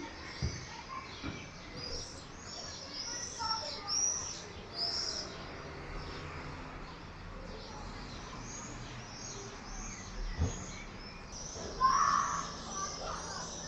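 Common swifts screaming in a screaming party: many short, shrill, high screams in quick clusters. Near the end a louder, lower sound cuts in briefly.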